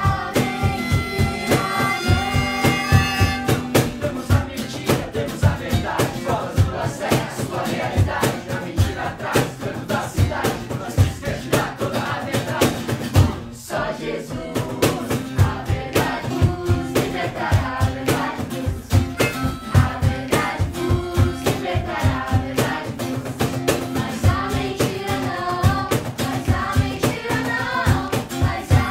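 A Christian worship song played live with a steady drum beat and voices singing along.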